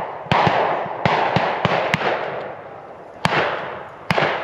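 Shotguns fired by several shooters at flushed pheasants: about eight sharp reports, four of them loud and the rest fainter and farther off. Each shot trails off in a long echo.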